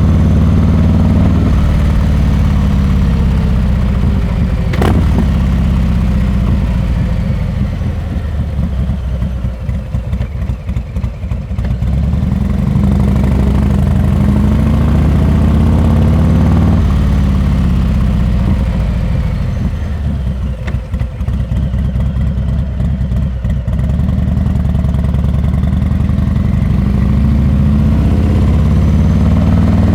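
Harley-Davidson Heritage Classic 114's Milwaukee-Eight V-twin running through a Rinehart exhaust while riding. It pulls under throttle, eases off twice with a softer, choppy exhaust note, about a third and two thirds of the way in, and pulls again after each.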